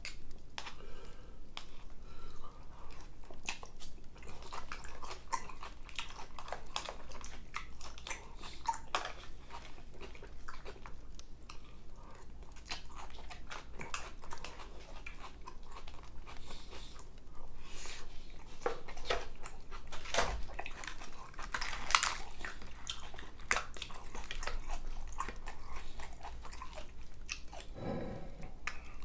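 Close-miked chewing and crunching from a person eating fried chicken and macaroni and cheese: many small irregular crunches and clicks, with one louder crunch about two-thirds of the way through.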